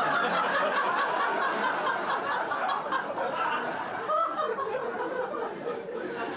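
Laughter from several people at once, dense and continuous, easing slightly toward the end.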